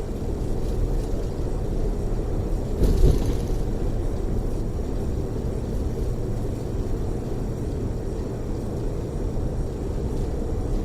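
Cabin noise of a highway coach cruising on the freeway: a steady low rumble of engine and tyres on the road, with a brief louder swell about three seconds in.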